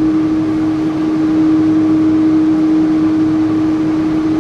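Boeing 777-300's jet engines heard from inside the passenger cabin: a steady hum with one constant tone over even rushing noise.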